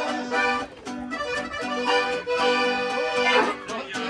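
Mexican song with an accordion playing a melody between sung lines; the singer's last word of a line is heard at the very start.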